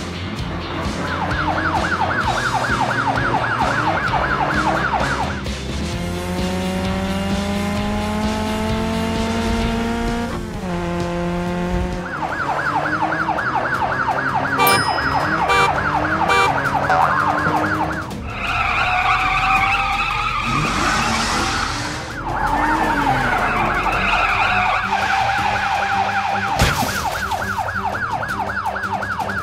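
Cartoon sound effects over light background music: a police siren warbles in two stretches, and a car engine revs up in a rising whine between them. Wavering siren tones follow, and a single crash bang sounds near the end.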